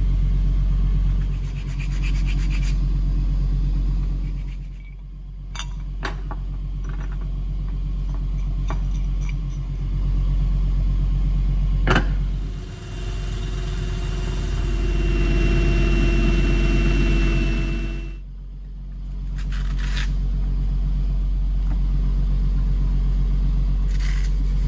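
A workshop power tool's electric motor runs steadily with a constant low hum. Abrasive rubbing against metal comes and goes, with a louder, hissing stretch of contact for about five seconds past the middle. A few sharp clicks fall around the middle.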